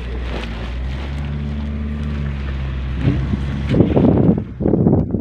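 Mahindra Scorpio S11's diesel engine pulling under acceleration, a steady drone heard inside the cabin. Nearly four seconds in, a louder, gusty rumble of wind buffeting the microphone takes over.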